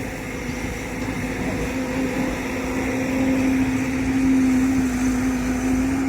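Heavy diesel engine running steadily with a constant hum, growing a little louder about three seconds in.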